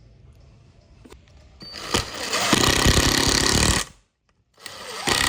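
A woodworking power tool run in two short loud bursts, with a fast rattling pulse under the noise, stopping briefly between them.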